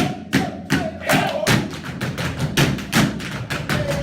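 Tap dancers' shoes striking the floor in a fast, uneven rhythm of sharp taps and stamps, several a second.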